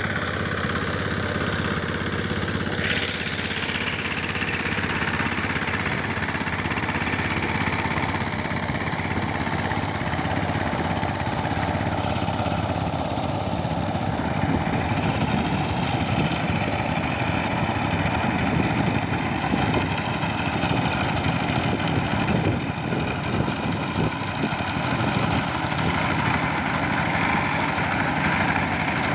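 Power tiller's engine running steadily, with an even, unbroken chugging.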